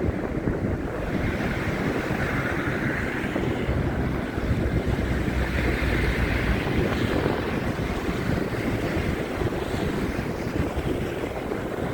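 Wind buffeting a phone's microphone in a snowstorm: a steady rushing roar that swells twice.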